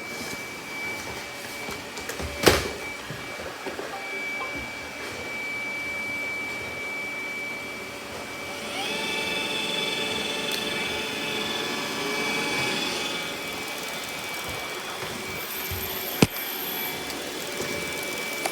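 Robot vacuum running with a steady high-pitched motor whine. There is a sharp knock about two and a half seconds in, a brighter, louder motor tone comes in for a few seconds about nine seconds in, and there is a sharp click near the end.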